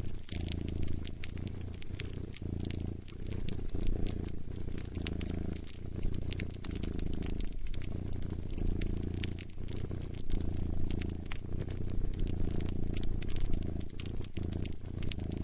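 Cat purring, the low purr pulsing in and out about every second and a half with its breathing, over a wood fire crackling with many sharp pops.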